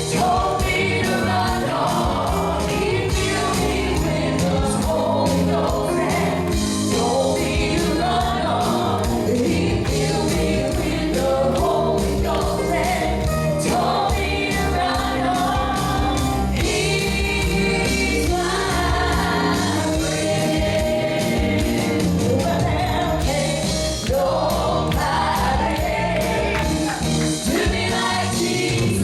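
A congregation and singers performing a gospel song with a full band behind them, with sustained sung notes over a steady beat.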